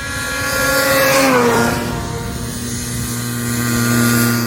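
Snowmobile engine running: its pitch drops about a second and a half in, then holds steady.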